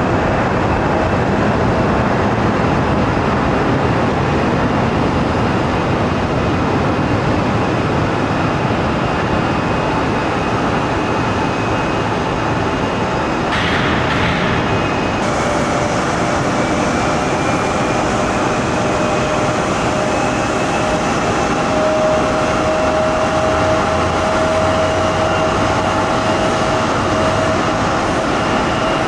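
Jet airliner engines running: a steady, loud rush of noise with a high whine over it. A short burst of noise comes about fourteen seconds in.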